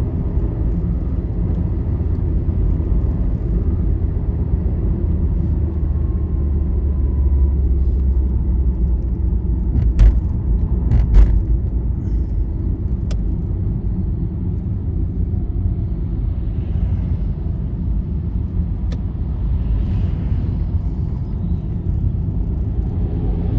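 Steady low road rumble of a vehicle travelling along a highway, with two sharp knocks about ten and eleven seconds in.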